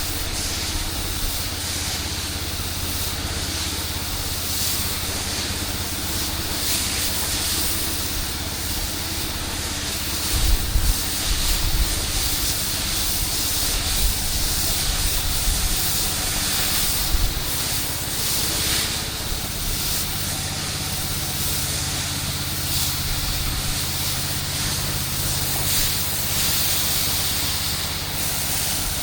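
Pressure-washing rig at work: an engine running steadily under a loud, even hiss of water spray. A few low bumps come between about 10 and 17 seconds in.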